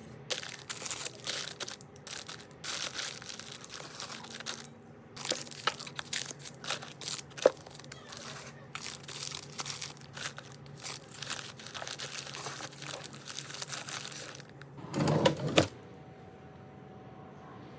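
Crinkling and rustling in irregular bursts, as of packaging or paper being handled, with a louder burst about fifteen seconds in, after which it stops.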